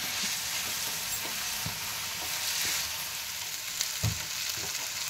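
Chopped onions, green chillies and curry leaves sizzling in hot oil in a pan, stirred with a wooden spatula that knocks and scrapes against the pan now and then, with the loudest knock about four seconds in.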